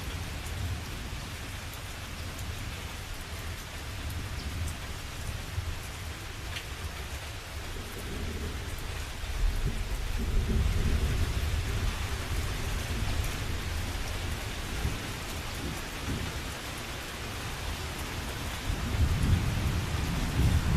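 Steady rain falling, with low rolling thunder rumbling under it. The thunder swells about halfway through and again near the end.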